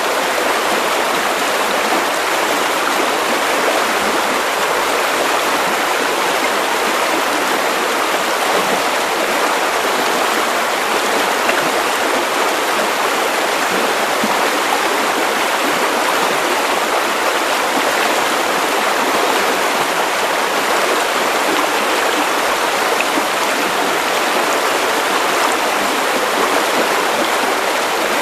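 Steady white noise: an even, unbroken hiss with little bass, used as a sleep aid for babies.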